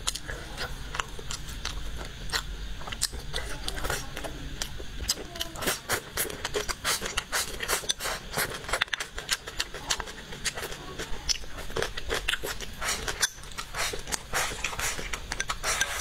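Close-up eating sounds: chewing braised pig's trotter and rice, with a dense, irregular run of wet mouth clicks. Wooden chopsticks scrape against the rim of a ceramic bowl as rice is shovelled into the mouth.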